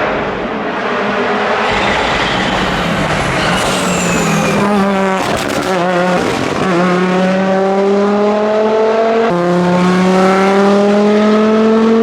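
Audi Quattro S1 rally car's turbocharged five-cylinder engine driven hard: uneven revs with a falling whistle in the first few seconds, then the pitch climbs steadily under full throttle, with upshifts a little past halfway and again about three-quarters in.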